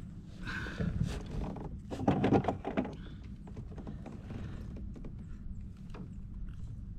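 Scattered knocks, taps and rustling from handling on a plastic kayak, with a louder cluster of knocks about two seconds in.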